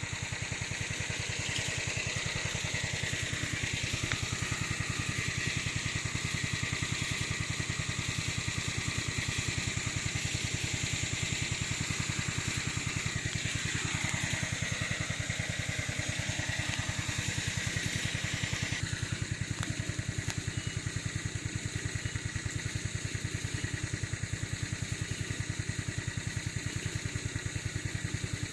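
Engine of a homemade remote-control lawn mower running steadily, with a whine that drops in pitch and climbs back up about halfway through.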